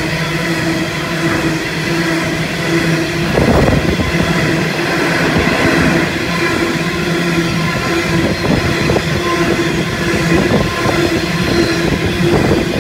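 Freight train of covered hopper wagons rolling past close by: a steady rumble and hum of steel wheels on rail, joined from about three seconds in by a busy, irregular clatter of wheels and couplings.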